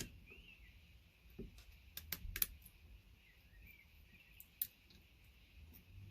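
Side cutters twisting a VGA connector apart: a few faint, sharp clicks and snaps of metal and plastic, one at the start, a quick cluster about two seconds in, and a last one near the end, with quiet gaps between.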